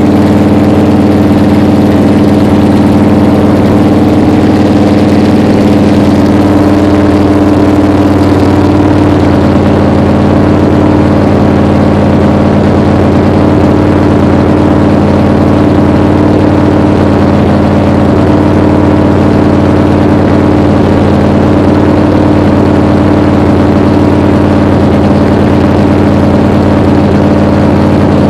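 1966 Plymouth Valiant V100's engine running steadily at a constant speed during its break-in run after decades of sitting.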